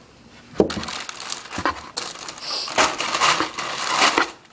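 Paper crinkling and a cardboard shoe box being handled, irregular rustling broken by a few sharp knocks.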